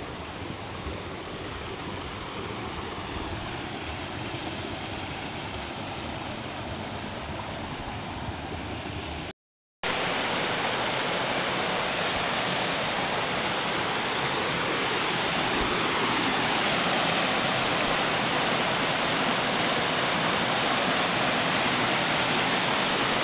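Rushing water of a waterfall, a steady hiss of noise; it cuts out briefly about nine seconds in and comes back louder.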